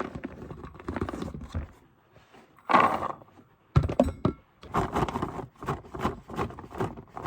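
Irregular knocks, thuds and rustling of things being handled and packed up, with a louder clatter about three seconds in and a run of quick knocks after that.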